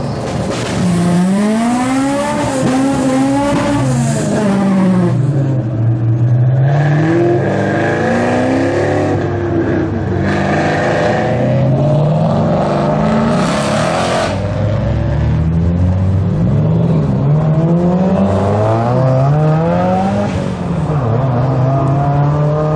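Car engine revving up and down repeatedly, its pitch climbing and falling several times, with some revs held at the top for a few seconds.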